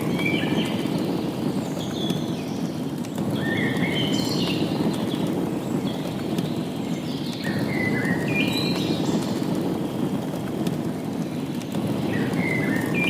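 A songbird repeating a short phrase of quick high notes that step down in pitch, about every four seconds, over a steady low rushing noise.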